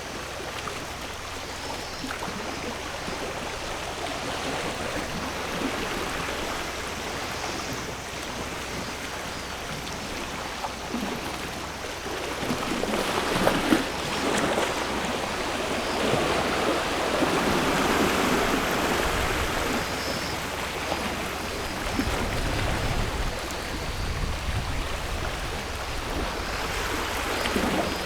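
Sea waves washing onto the shore, a steady rushing wash that swells and eases over several seconds and grows louder about halfway through.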